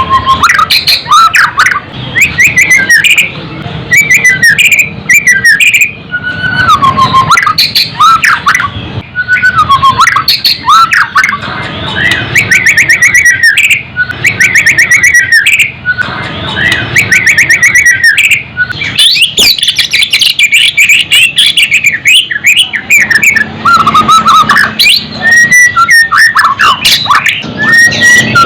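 White-rumped shama singing a loud, continuous song of varied gliding whistles mixed with fast rattling trills and harsh notes, in phrases broken by short pauses.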